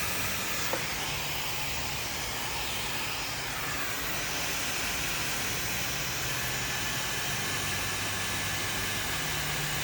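Handheld hair dryer running steadily: a continuous rush of blown air over a faint low motor hum, with one small click about a second in.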